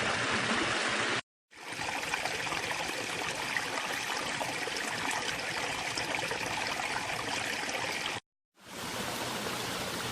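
Water from a pondless waterfall splashing and running steadily over rocks. The sound cuts out sharply twice, about a second in and near eight seconds, and swells back each time.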